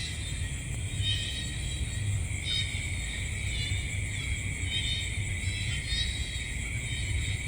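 Night insect chorus of crickets, a steady high drone with chirping trills repeating about once a second, over a low rumble.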